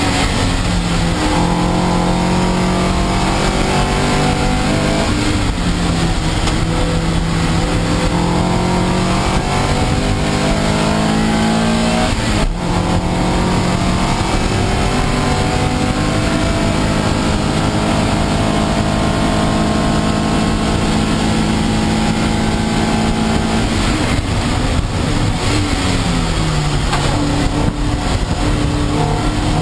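Toyota MR2 race car's engine heard from inside the cabin, revving up through the gears and dropping back again and again, with a sharp break in the revs about twelve seconds in and a long fall in pitch near the end. A steady hiss from the wet track and rain runs beneath it.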